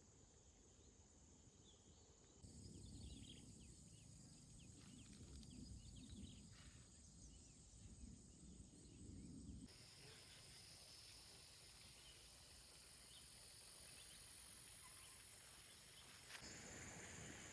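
Faint farm ambience with a steady high insect drone. A low rumble comes and goes, and the background changes abruptly about two and a half, ten and sixteen seconds in.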